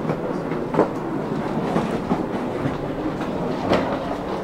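Cabin noise inside a Stockholm commuter train (pendeltåg) carriage: a steady rumble with a few sharp knocks, one about a second in and another near the end.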